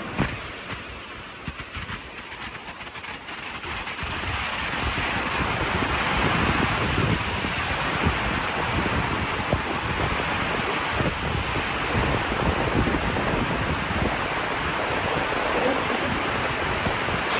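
Typhoon wind and rain rushing steadily, with gusts buffeting the microphone in low thumps. It swells about four seconds in and stays loud.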